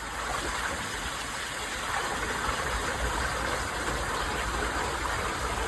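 Steady rumble of a vehicle engine running, with an even background hiss.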